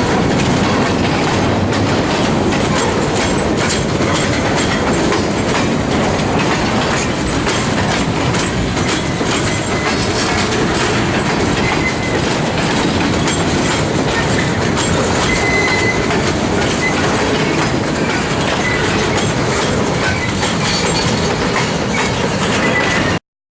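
Freight train cars rolling past, their wheels clicking steadily over the rail joints, with faint brief wheel squeal now and then. The sound cuts off abruptly near the end.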